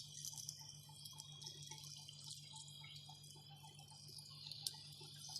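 Lathe running while a parting-off tool cuts into a steel hydraulic-cylinder part, heard faintly as a steady low hum and a high hiss with a few small clicks.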